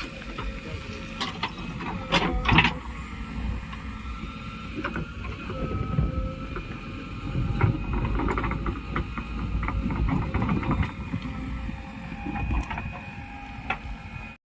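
JCB 3DX Plus backhoe loader working: a steady engine rumble under a thin whine, with several sharp knocks, the loudest about two seconds in.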